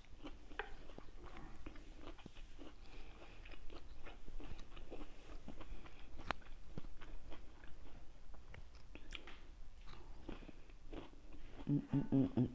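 A person biting and chewing fresh fruit close to the microphone, with small wet crunches and scattered mouth clicks.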